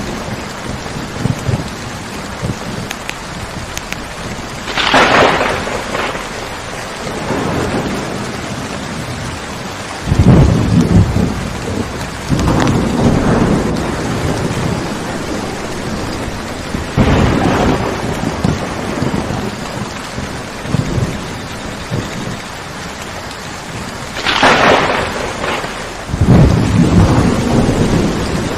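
Steady rain with thunder: two sharp cracks, about five seconds in and near the end, and several low rumbles in between.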